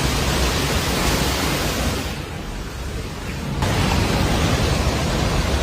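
Rushing roar of a flooded river, a steady, loud noise that turns duller and quieter for about a second and a half in the middle.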